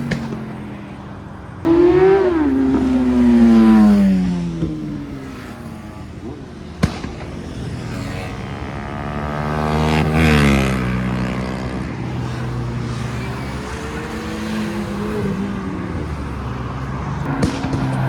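Modified cars driving away one after another, engines revving as they accelerate past, each engine note rising and then falling in pitch. The loudest pass starts suddenly about two seconds in, another comes around ten seconds, and there is a single sharp bang about seven seconds in.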